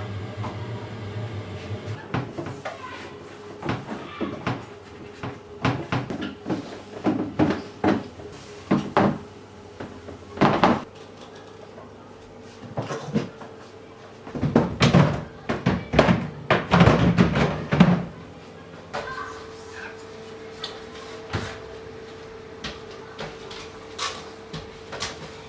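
Irregular knocks, clicks and clatters of containers, shelves and doors being handled while a fridge is cleaned out, with a dense run of louder knocking and rubbing about halfway through. A steady hum comes in near the end.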